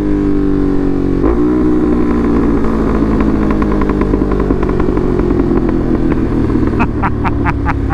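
Ducati Monster's V-twin running loud through an SC Project aftermarket exhaust on the road; its pitch drops sharply about a second in, like a gear change, then falls away slowly. Near the end a quick run of sharp pops and crackles comes from the exhaust as the engine slows.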